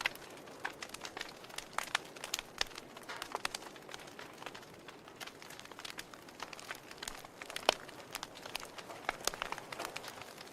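Wood fire in a fireplace crackling: irregular sharp pops and snaps from the burning logs over a soft steady hiss of the flames, with one louder pop about two thirds of the way through.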